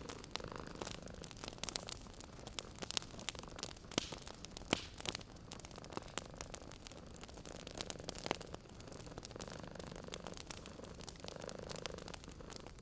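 Wood fire crackling with many irregular sharp pops, over a cat's soft purring that swells and fades.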